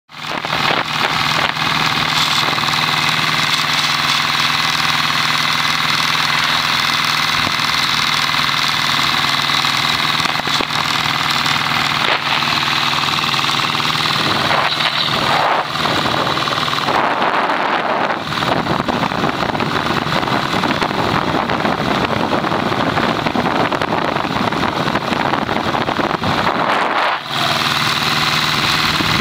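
Royal Enfield diesel motorcycle's single-cylinder diesel engine running steadily under way, with wind and road noise.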